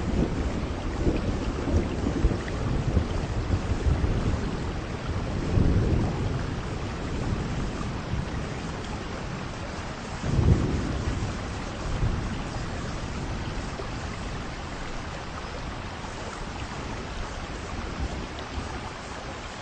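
Heavy rain with rolling thunder rumbling through the first half, and a louder thunder crack about halfway through. The rain then carries on as a steady hiss.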